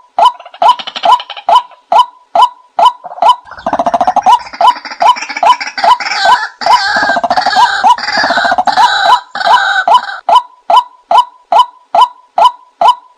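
A short bird-like call note repeating at an even, machine-steady rate of nearly three a second, with a harsher, raspy squawking layered over it from about three seconds in until about ten seconds in.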